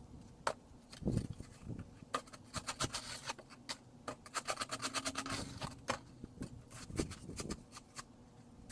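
Snow crunching and scraping: a run of sharp crackly clicks that thickens in the middle, with a few duller thumps.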